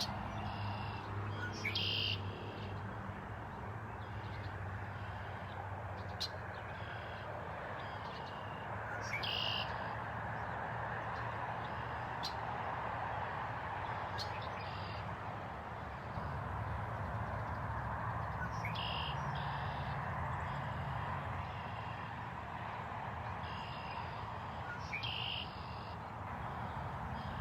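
Wild birds calling: short, bright calls recurring every several seconds, with fainter ones between, over a steady hiss and a low hum.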